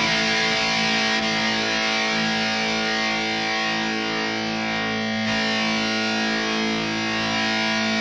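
Electric guitar played through the Neural DSP Mesa Boogie Mark IIC+ amp model with its overdrive pedal switched on: one distorted chord held and left to ring, sustaining evenly.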